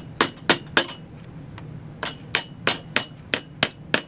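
Hammer tapping in quick runs, about three blows a second, each with a brief metallic ring. Three blows, then a short lull with two light taps, then about seven more blows.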